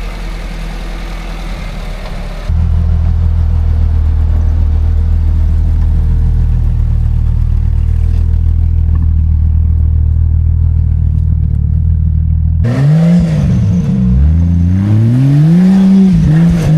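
Old Jeep Cherokee's engine running at a steady pitch, jumping abruptly louder about two and a half seconds in. Near the end it revs up and down several times as the vehicle works over the course.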